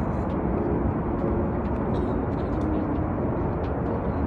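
Steady low outdoor background rumble, with no single sound standing out.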